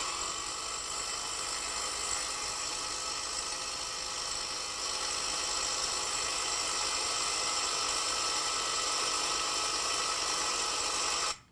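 Drill running steadily with a continuous whirring noise, a little louder about halfway through, then cutting off suddenly near the end.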